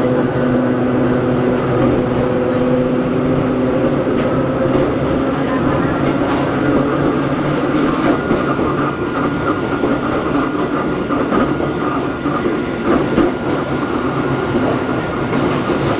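Hakone Tozan Railway Moha 1 No. 106 electric railcar running, heard on board: the steady whine of its nose-suspended SE121-A traction motors and gearing over a rumble, with wheels clicking over rail joints. A higher steady tone joins about halfway through.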